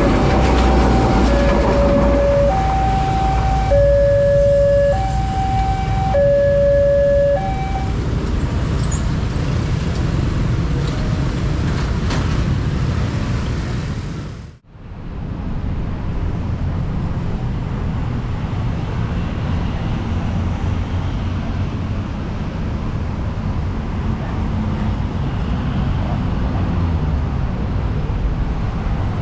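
Level crossing's electric warning bell sounding two alternating tones, a low and a high one about a second each, over the low rumble of a passing train; the tones stop about seven seconds in. About halfway through the sound cuts out sharply, then a steady low rumble goes on.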